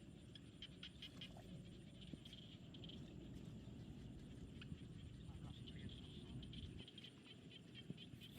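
Faint chorus of frogs calling in rapid short chirps, over a low steady rumble.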